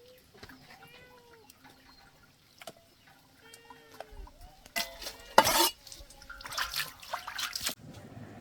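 Two short, arched animal calls, then loud sloshing and splashing of water.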